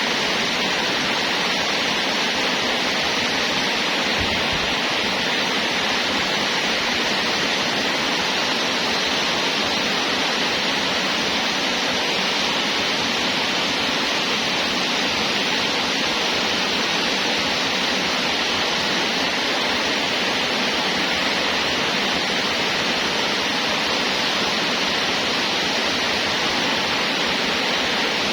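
Steady, unchanging rushing noise with no distinct events.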